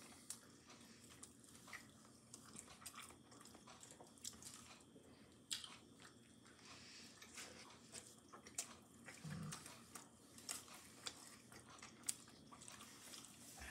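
Faint sounds of a person biting into and chewing a soft meatball sub: scattered soft clicks and smacks of the mouth working, with a short low hum about nine seconds in.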